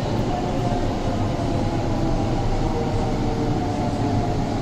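Kolkata East West Metro train running, heard from inside the carriage: a steady rumble of wheels and running gear with a faint, even whine over it.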